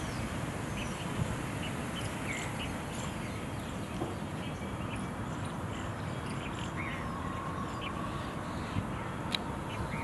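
Scattered short chirps of small birds over a steady low rumble, with a single sharp click near the end.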